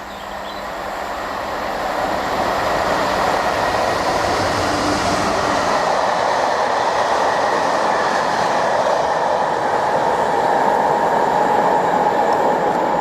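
Train running past at speed on the main line, its rail and wheel noise swelling over the first couple of seconds and then holding steady, with a faint ringing tone from the wheels on the rails.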